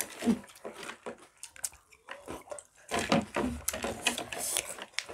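Crunchy Kurkure snacks being bitten and chewed, with irregular crunches and small clicks.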